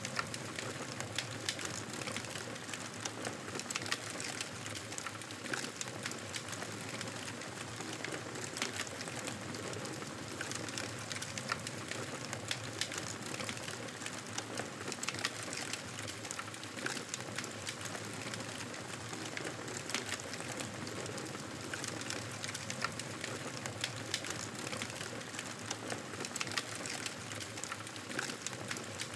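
Campfire burning with a steady hiss and frequent small, irregular wood crackles and pops.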